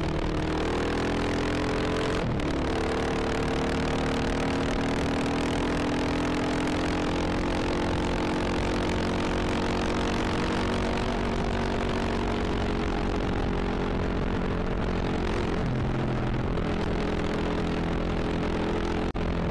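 Motorcycle engine running under load at speed, heard from on the bike with wind rushing past. Its pitch climbs, drops sharply at a gear change about two seconds in, sinks slowly over the next dozen seconds, steps down again around fifteen seconds in, and dips briefly just before the end.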